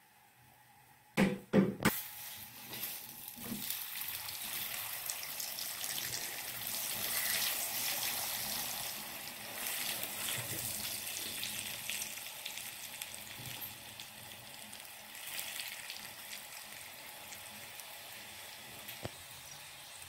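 Aloo paratha (potato-stuffed flatbread) sizzling as it fries on a hot flat pan, a steady hiss. A few sharp knocks come about a second in, before the sizzling starts.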